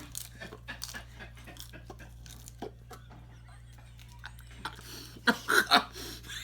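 A person crunching and chewing dry, crunchy food: a run of small crunches with a few louder cracks about five seconds in.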